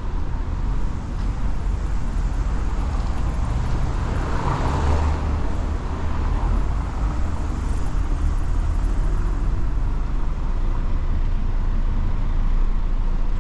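Street traffic with a steady low rumble, and a vehicle passing close by about four to six seconds in.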